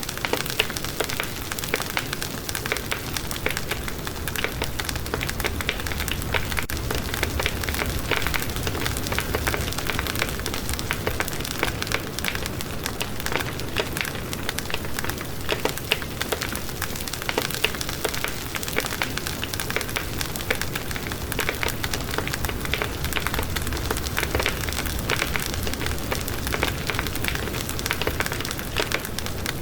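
Wood fire in a fireplace crackling steadily, with dense small pops and snaps over a low rumble.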